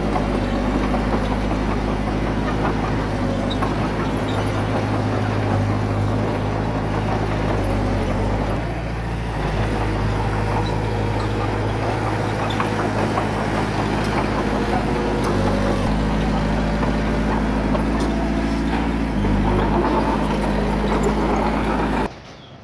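Heavy diesel engine of earthmoving equipment running steadily, its pitch shifting a few times as throttle and load change. The sound drops away sharply near the end.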